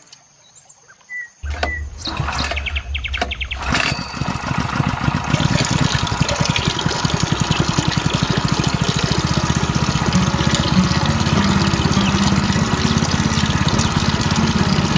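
A small electric water pump switches on about a second and a half in and runs steadily with a fast buzzing pulse; from about four seconds water pours and splashes along with it.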